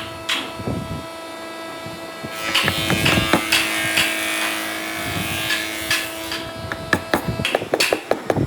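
Hand tools working wood: scattered sharp knocks, then a rasping stroke lasting a few seconds, then a quick run of light taps near the end, over a steady hum.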